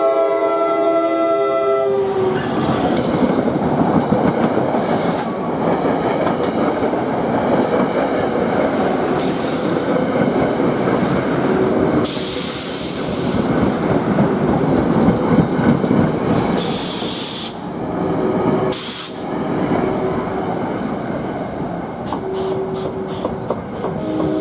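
NJ Transit commuter train passing close by: its horn chord cuts off about two seconds in, followed by loud, steady wheel-on-rail rumble. Near the end comes rapid clicking of wheels over rail joints, and the horn chord sounds again at the very end.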